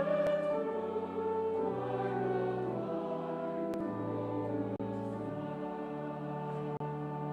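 Brass quintet playing a slow chorale in sustained chords, the bass note moving to a new pitch about every two seconds.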